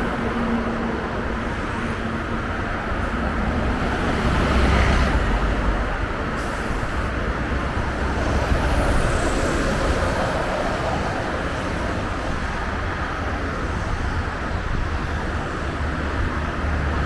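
Scania K114EB bus's diesel engine running with a steady low rumble and road and traffic noise, the bus on the move.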